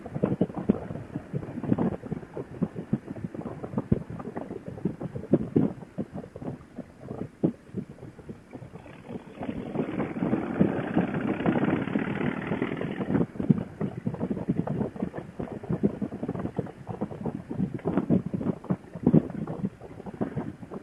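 Wind buffeting a motorcycle rider's helmet intercom headset microphone at road speed, an irregular rushing and crackling that swells louder for a few seconds in the middle.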